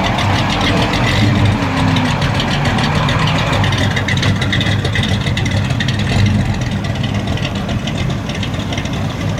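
A V8 muscle-car engine idling, a steady low rumble with even firing pulses.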